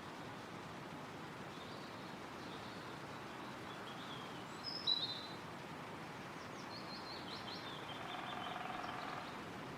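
Woodland ambience: a steady rush of wind in the trees, with wild birds giving short high chirps, one sharp and loud about halfway through, and a quick run of high notes near the end.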